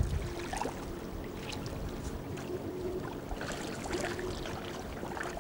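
Canoe being paddled: a paddle dipping and water splashing, dripping and lapping at irregular moments.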